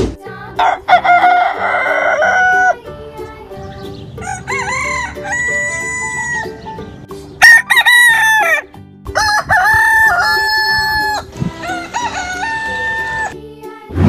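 Rooster crowing several times in a row, the longer crows holding their pitch before falling away at the end.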